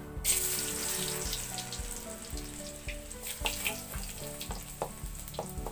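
Garlic dropped into hot oil in an iron wok starts sizzling sharply about a quarter second in, a loud hiss that carries on, with spatula clicks and scrapes as it is stirred.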